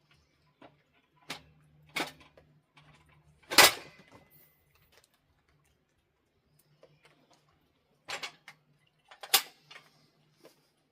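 A few separate knocks and clatters of things being handled and set down, the loudest about three and a half seconds in with a short faint ring after it, with small clicks between and a faint low hum that comes and goes.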